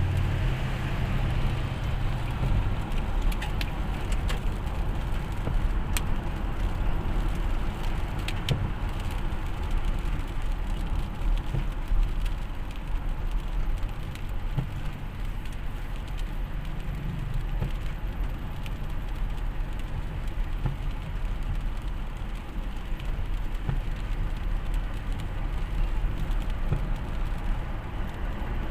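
Steady low rumble of a moving vehicle's engine and road noise, with a few faint clicks.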